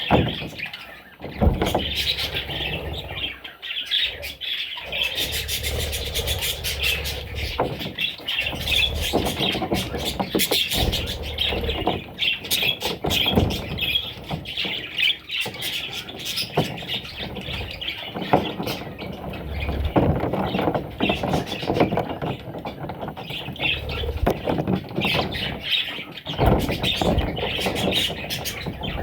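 Budgerigars chattering and chirping without a break, a dense high twitter laced with many sharp clicks.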